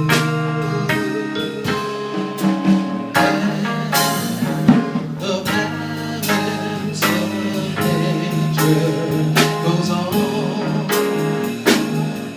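Live band playing a soul-jazz ballad with drum kit, while a singer's voice wavers through a wordless vocal line over it.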